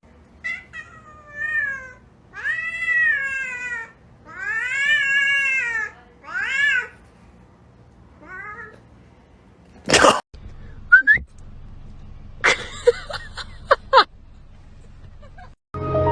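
A cat meowing repeatedly: about six drawn-out meows that rise and fall in pitch, two of them long, over the first seven seconds. About ten seconds in there is a sharp knock, followed by a few short clicks.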